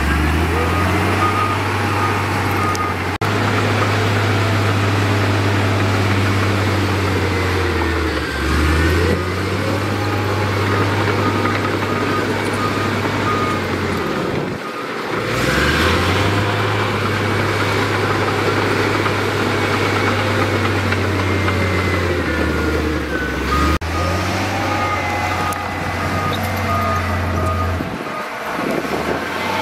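Heavy diesel engines of earthmoving machines running with a steady low drone that drops away briefly a few times, with a vehicle's reversing alarm beeping at a steady rate near the start and again near the end.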